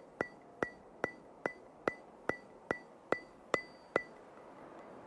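A regular ticking like a wood block or clock tick, sharp knocks with a short ringing tone, about two and a half a second, ten in all, stopping about four seconds in.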